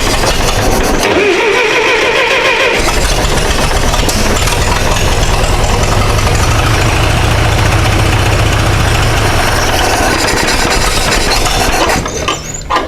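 Massey Ferguson 65's carbureted gasoline engine being cranked by the starter with a rising whine, then running loudly for several seconds before it stops abruptly near the end. The carburettor is still being adjusted and the engine is not yet running right.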